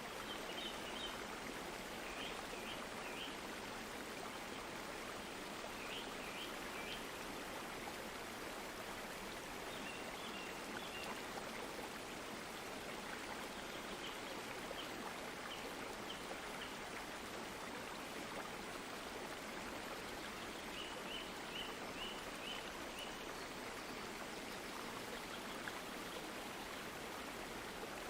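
Steady rushing of a flowing stream, with short high chirps of small birds breaking in several times.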